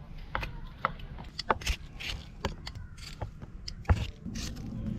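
Irregular clicks and knocks of cooking gear and ingredient containers being handled and set down on a table, over a low steady background hum.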